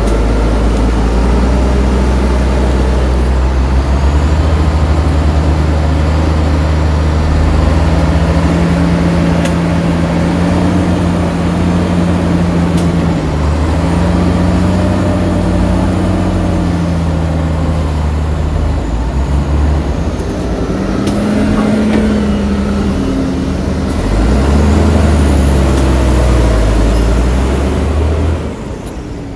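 Heavy diesel engine of earthmoving equipment running under load, revving up and down repeatedly as the machine works. The sound drops off suddenly near the end.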